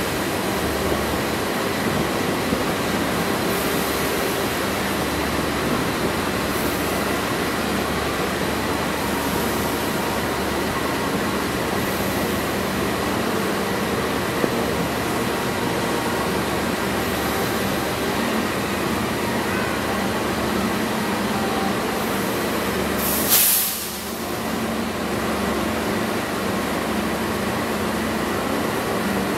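Passenger train coaches rolling slowly into a station, heard from the train's vestibule: a steady rumble of wheels on rails. A short, loud hiss about three quarters of the way through.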